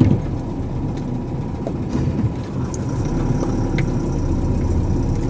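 Diesel engine of a Mahindra six-wheel container truck running steadily at low revs while the truck reverses.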